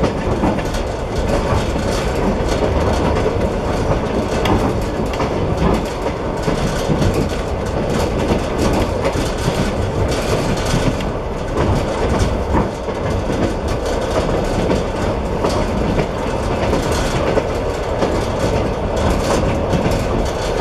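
Passenger train running at speed, heard from inside the carriage: a steady rumble of wheels on rail with scattered clicks from the wheels passing over rail joints.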